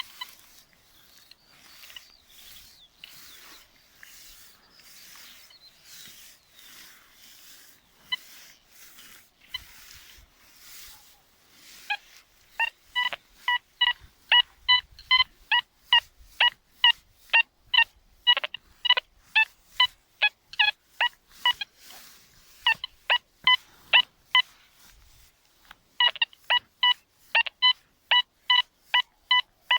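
Deteknix Quest Q40 metal detector with a Nel Tornado coil: a soft rhythmic swishing at first, then about twelve seconds in the detector starts sounding its target tone, short pitched beeps about twice a second as the coil is swept back and forth over a target. The beeps break off for a few seconds near the end and then resume.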